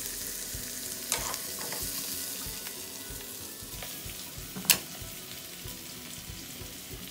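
Small whole potatoes sizzling in oil in a nonstick pan with garlic and rosemary, a steady frying hiss that slowly gets quieter. A couple of faint clicks about a second in and one sharp click about two-thirds of the way through.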